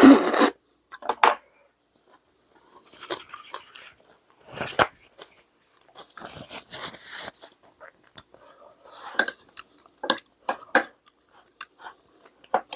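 A person eating at the table: crunchy chewing and bites, with chopsticks clicking and tapping against dishes in short scattered bursts.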